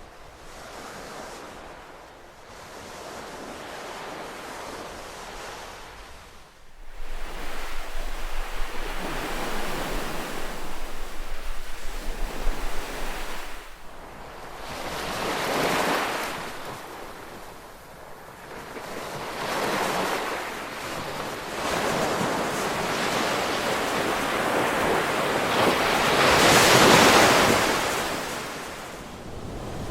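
Ocean waves breaking and washing up the shore, the surf swelling and ebbing every few seconds. It gets suddenly louder about a quarter of the way in, and the biggest wave comes near the end.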